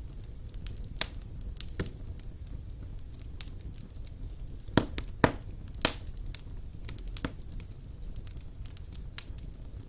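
Wood fire burning in a fireplace: irregular sharp crackles and pops over a low steady rumble of the flames, with a cluster of louder pops about five to six seconds in.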